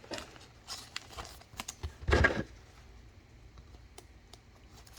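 Trading cards being handled and flipped: a scatter of light clicks and rustles, with one louder rubbing thud about two seconds in.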